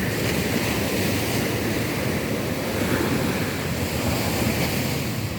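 Rough sea surf washing and breaking on a beach in a continuous rush, swelling slightly about halfway through, with wind rumbling on the microphone.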